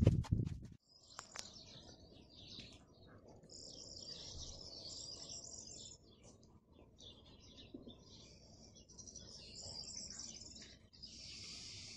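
Small birds chirping and singing in short, repeated high phrases. A burst of loud knocking cuts off under a second in.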